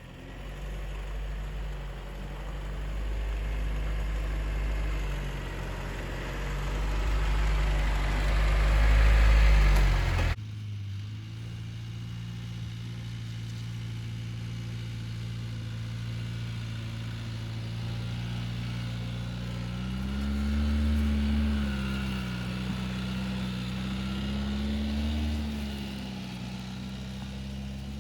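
Mitsubishi L200 Triton pickup's engine running steadily. There is an abrupt change in the sound about ten seconds in, and later the engine speed rises and falls twice.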